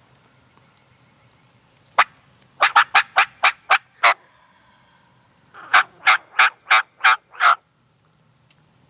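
A series of turkey yelps: one yelp about two seconds in, then a quick run of about seven, a short pause, and a second run of about six, each note short, loud and evenly spaced.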